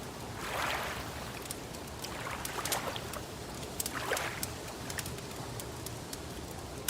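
Lake water lapping in soft swells every second or two, with the sharp pops and crackles of a wood fire scattered throughout.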